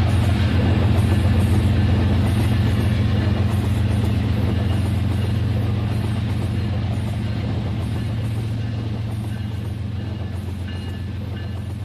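Rail King toy train running on its plastic track, a steady motor hum with a fast, even clatter that fades slowly as it runs.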